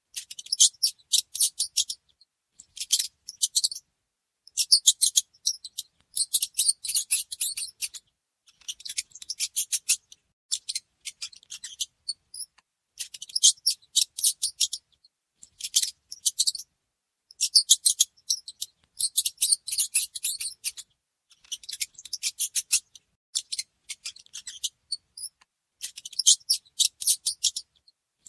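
Mice squeaking in repeated bouts of rapid, high-pitched chirps, each bout a second or two long, with short pauses between them.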